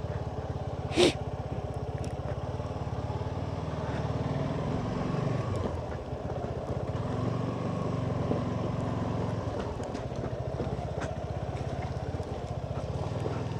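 Suzuki V-Strom SX 250's single-cylinder engine idling steadily with an even, rapid pulse. A short, loud sound cuts in briefly about a second in.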